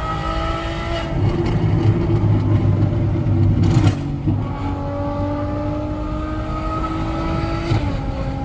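Straight-piped Ferrari 812 Superfast's V12 accelerating under way. Its pitch climbs slowly and drops back at gear changes about a second in, around four seconds in and near the end, with a brief crackle at the middle shift.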